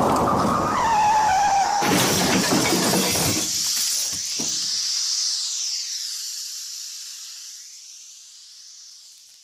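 Film sound effect: a loud shattering crash, a second sharp hit about two seconds in, then a high hiss that wavers and slowly fades away.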